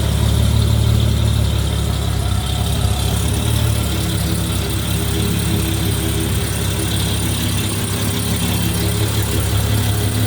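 1973 Mercedes 280 CE's straight-six engine idling steadily.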